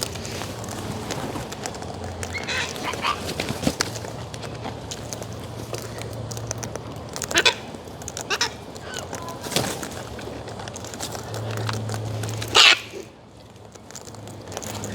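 Cockatoos squawking: a handful of short, harsh calls spaced a few seconds apart, the loudest near the end.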